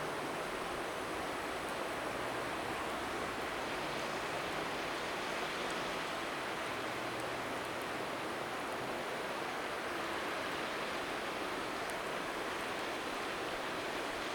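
River water rushing steadily, with a few faint crackles from a wood fire.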